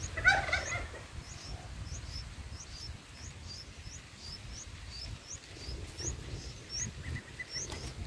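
Red-vented bulbul and its nestlings calling at the nest: a short loud burst of calls just after the start, then thin high chirps repeating about twice a second, with a quick run of short notes near the end.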